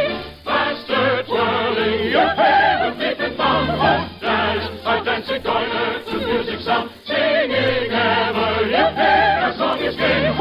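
Choir singing a gypsy chorus with orchestral accompaniment in an operetta, heard as an old radio recording with the treble cut off.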